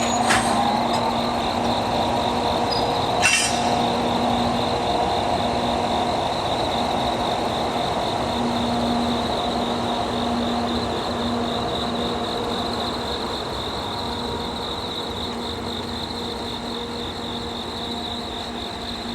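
Diesel locomotive engine running with a steady low hum, slowly fading, during a locomotive run-around to recouple at the other end of a freight train. Two sharp metallic clanks about three seconds apart come near the start. A high, steady insect trill runs over everything.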